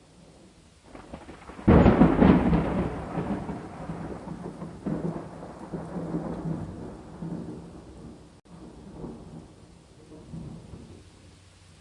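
Thunderstorm: a sudden close clap of thunder just under two seconds in, rolling on and slowly fading with a few weaker rumbles over steady rain.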